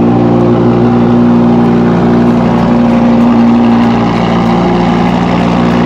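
Audi R8's V10 engine idling loudly and steadily.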